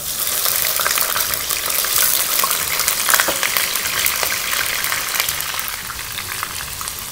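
Blended onion paste hitting hot cooking oil in a pan and frying: a sudden burst of dense sizzling and crackling that eases off a little over the next few seconds.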